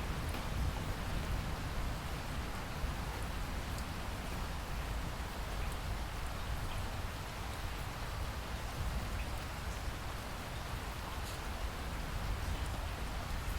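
Rainstorm: steady rain falling as an even hiss, with scattered sharp ticks of single drops and a low rumble underneath.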